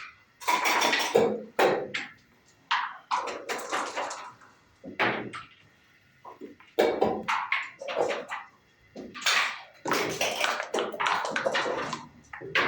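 Backgammon play: dice rattling and bouncing on a wooden board and checkers clacking as they are moved, in a quick irregular run of short clatters.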